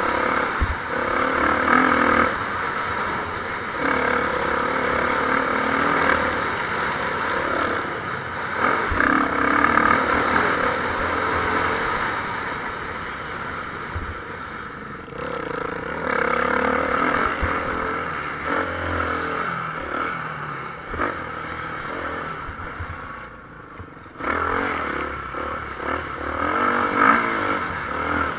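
Motocross motorcycles racing on the track, their engines revving up and dropping off as they pass, the noise swelling and fading several times and dipping briefly near the end before building again.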